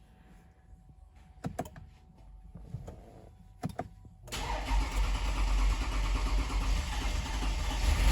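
Two short clicks, then from about four seconds in the starter motor cranks over a freshly rebuilt Toyota 2GR-FE 3.5-litre V6 on its first start attempt after the overhaul.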